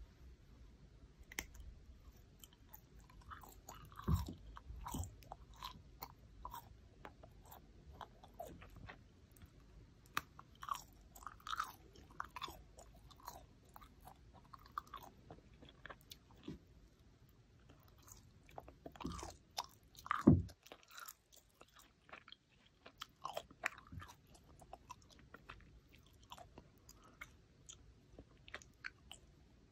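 Close-up chewing and biting of a chewy jjondeugi snack sheet, with scattered small crackles and clicks. Two louder low thumps come about four seconds in and again about twenty seconds in.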